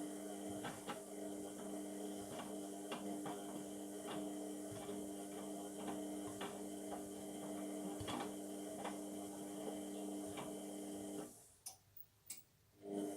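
Indesit MTWC71252WUK washing machine's motor turning the drum with a steady hum and scattered light clicks. It stops about eleven seconds in and starts again just before the end. This fits the machine struggling to balance a lone bath mat before spinning.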